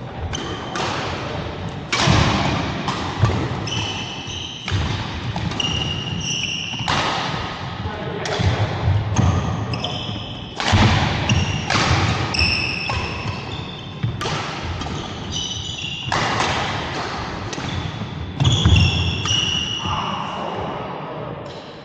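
Badminton rally in a large hall: repeated sharp racket strikes and thuds, with players' footsteps and short high sneaker squeaks on the court floor, and voices in the background.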